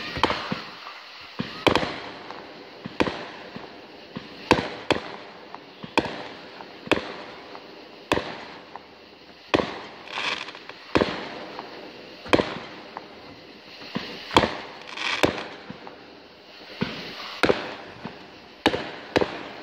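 Aerial fireworks going off: a string of sharp bangs at irregular intervals, roughly one a second, with a longer hissing swell after a couple of the bursts.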